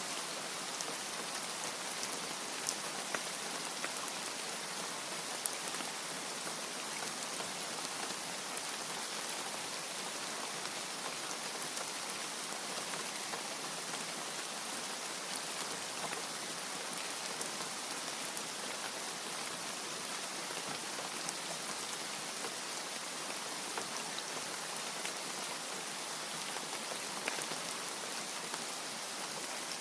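Steady rain: an even, unbroken hiss of falling rain with scattered sharper drop ticks, and no thunder.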